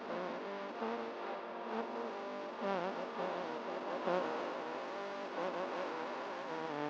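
Quran recitation in Arabic: a single voice chanting long, melodic held lines with wavering ornaments, cutting off suddenly at the end.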